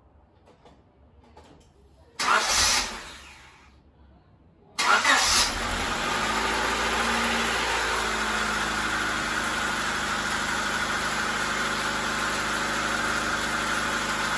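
Honda D16Y7 1.6-litre SOHC four-cylinder engine being started after its cylinder head was refitted. A first start attempt about two seconds in fades away. A second attempt about five seconds in catches, and the engine settles into a steady idle.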